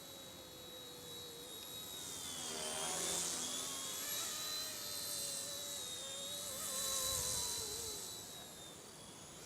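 Small electric RC Era C138 Bell 206 scale helicopter flying fast, its high-pitched rotor and motor whine swelling twice as it passes close, about three seconds in and again around seven seconds. Each time it goes by, the pitch dips.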